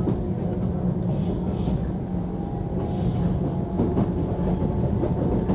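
A JR 185 series electric train heard from inside the cabin while running: a steady rumble of wheels on rail, with two short high hissing swells about one and three seconds in.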